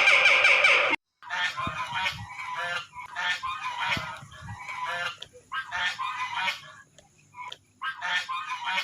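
Domestic geese honking in repeated short bursts of calls with brief pauses between them. They follow a loud, high-pitched sound that cuts off about a second in.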